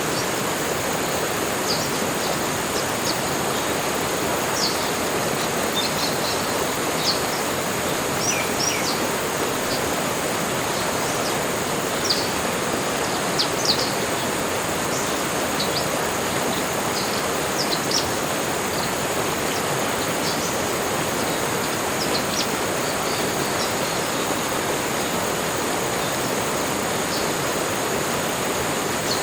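Tropical-forest ambience: a steady rushing background with many short, high bird chirps scattered throughout.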